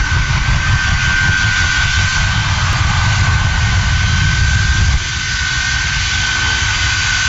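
Jet engines running: a loud, steady roar with a constant high whine over a heavy low rumble. The low rumble drops away abruptly about five seconds in.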